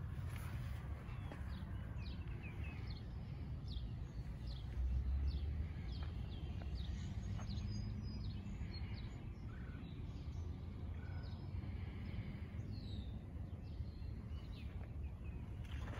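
Birds chirping over and over, short falling chirps, over a steady low rumble that swells briefly about five seconds in.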